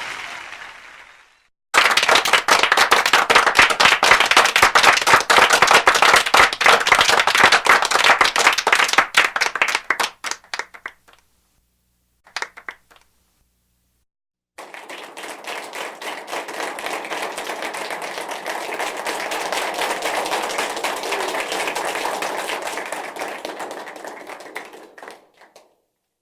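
Applause in separate takes: close, dense hand clapping that trails off after about nine seconds, a brief burst of clapping, then after a short gap a larger audience applauding, swelling and fading away.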